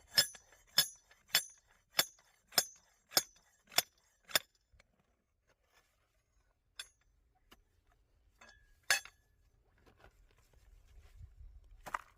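Hammer striking quartz rock with sharp, ringing clinks. A steady run of about eight blows, a little over half a second apart, is followed by a pause and then a few single blows.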